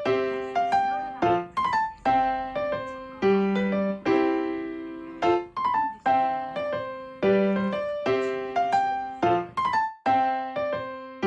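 Background music: a light keyboard tune of short, decaying piano-like notes in a steady repeating pattern.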